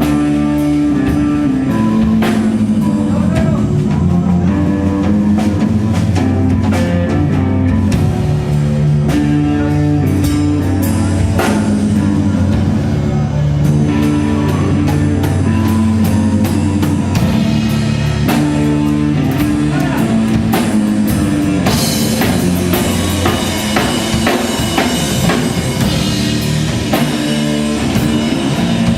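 A live rock band playing: electric guitar, bass and drum kit, loud and dense. About three quarters of the way through, the sound turns brighter and fuller in the highs.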